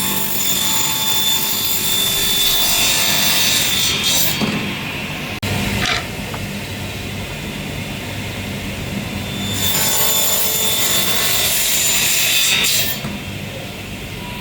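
A power tool working on wood: a steady motor whine under a rough grinding noise that swells and eases. It breaks off abruptly near the start and again about five seconds in.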